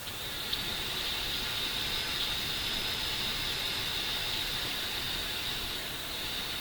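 Steady hiss with a faint high whine running through it, and a small click about half a second in.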